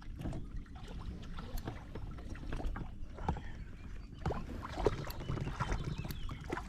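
Water lapping and splashing around a small boat as a hooked carp is played in close, with scattered light knocks and clicks and a steady low rumble.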